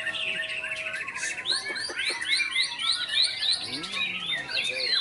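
White-rumped shama (murai batu) singing among other chirping birds: dense, overlapping high notes, with a run of quick rising sweeps, about three a second, in the second half.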